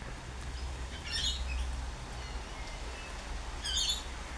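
Birds calling: two short bursts of high, harsh chattering, about a second in and again near the end, over a steady low rumble.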